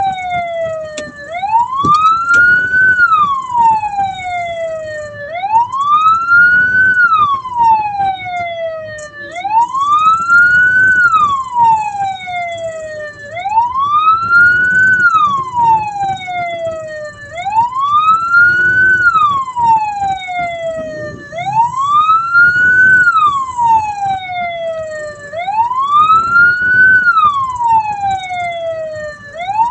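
A hearse's siren wails in a steady cycle, rising quickly and falling slowly about every four seconds. Vehicle road noise runs underneath.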